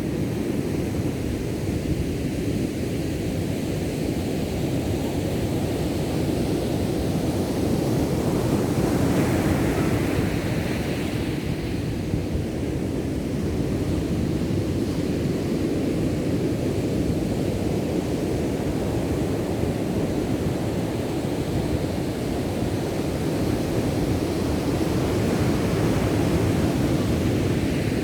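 Ocean waves breaking on a beach: a continuous surf rumble that swells and eases as waves come in, with wind buffeting the microphone.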